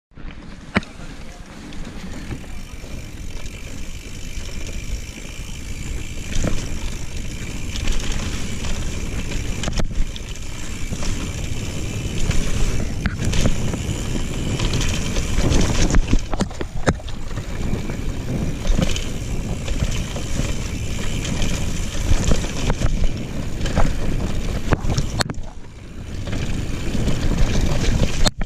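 Mountain bike ridden fast along a forest trail, heard from a bike-mounted action camera: steady wind and tyre rumble, with frequent sharp knocks and rattles from the bike over roots and bumps.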